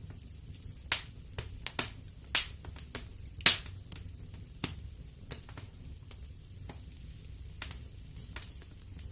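Wood fire in a fireplace crackling: irregular sharp pops and snaps over a low steady rumble of the flames, the loudest pops bunched in the first few seconds.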